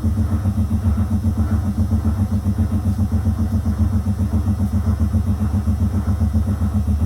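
Zanussi FL984CN front-loading washing machine running with its drum spinning: a loud, steady low hum from the motor and drum that throbs about five times a second.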